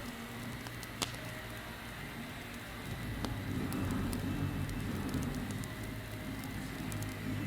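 Campfire burning: scattered crackles and a sharp pop about a second in, over a steady low rumble of the flames.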